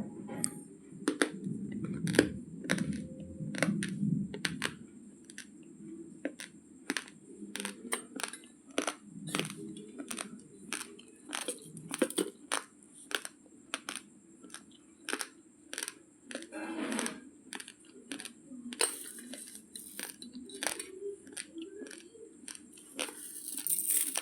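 Raw basmati rice being chewed: a steady run of sharp, irregular crunches as the hard dry grains crack between the teeth, about two or three a second.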